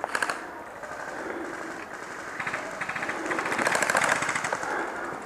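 Airsoft guns firing rapid full-auto bursts: a short burst at the start, then a longer, louder burst from about two and a half seconds in to past four seconds.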